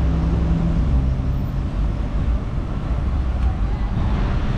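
A car engine running close by, a low steady engine sound with a hum that holds a steady pitch for about the first second and then wavers.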